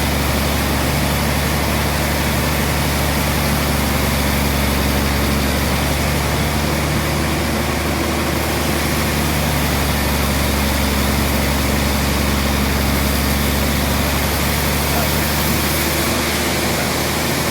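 Sawmill machinery running steadily: a loud, even low hum with a few steady tones over it and a dense hiss on top.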